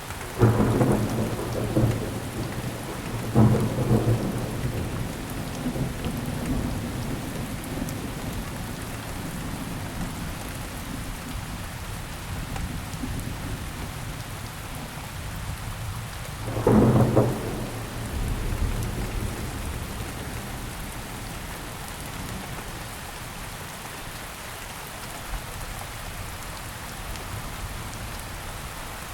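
Steady rain with thunder: a close crack of thunder right at the start, another about three and a half seconds in and a third about seventeen seconds in, each trailing off into a low rumble over the constant hiss of the rain.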